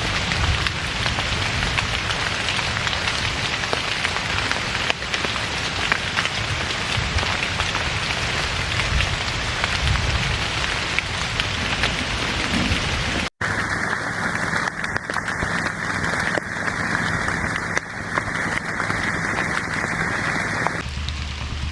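Heavy rain falling steadily, a dense hiss with many individual drop impacts. About thirteen seconds in it cuts abruptly to another take of the rain with a narrower, brighter hiss.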